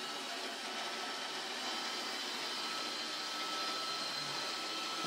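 Roomba robot vacuum running: a steady hiss of its motors with a thin, high whine.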